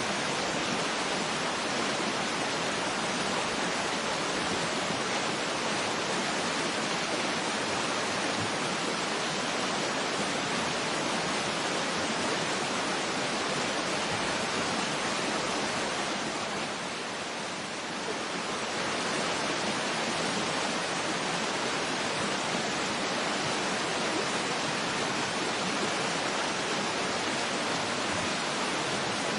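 Steady rushing of a waterfall, an even wash of water noise, with a brief, slight dip in level about two-thirds of the way through.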